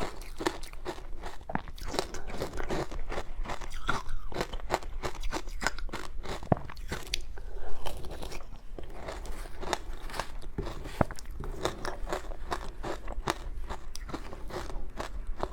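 Close-miked crunching and chewing of powdery shaved ice dusted with matcha, dense irregular crunches one after another.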